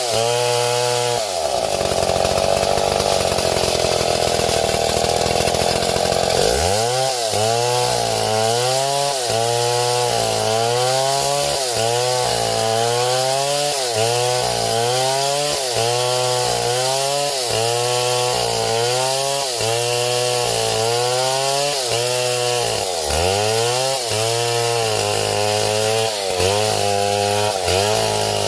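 Two-stroke chainsaw revved up to full throttle about a second in and held there, then cutting wood under load, its engine pitch dipping and recovering about once a second. There is one deeper dip about three-quarters of the way through before it revs back up near the end.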